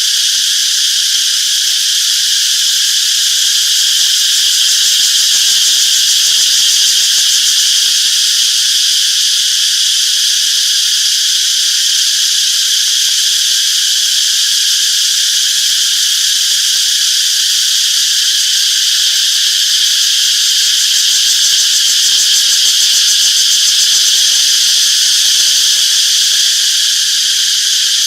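Cicadas singing in a dense, continuous chorus: a steady, high-pitched buzzing that never lets up.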